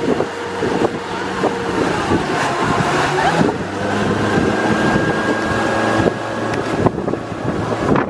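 Motorboat engine running steadily under way, towing a tube, with wind buffeting the microphone and water noise.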